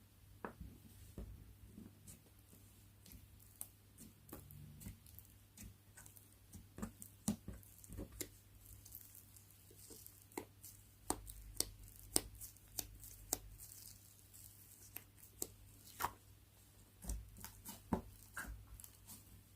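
Slime being squished and stretched by hand, giving many small irregular clicks and pops, more of them in the second half.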